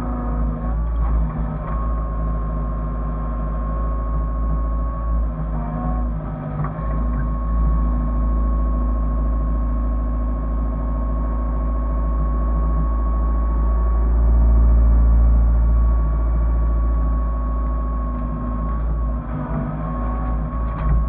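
Hyundai excavator's diesel engine running steadily with a high whine over a deep rumble; the whine dips briefly in pitch three times, about a second in, around six seconds in and near the end.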